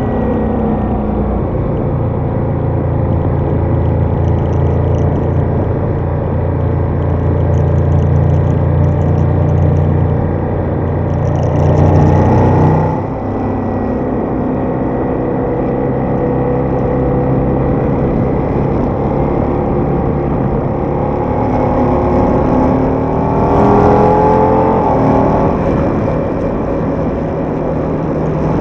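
Ducati Diavel motorcycle engine running under way. Its note climbs as it accelerates about twelve seconds in, then cuts off abruptly as the throttle closes or a gear changes. It climbs again a little before the end.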